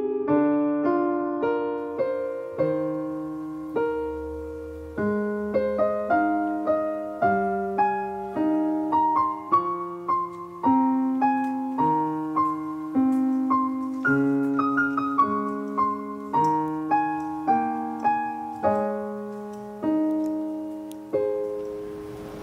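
Solo piano background music, a slow, gentle melody over chords, each note struck and fading.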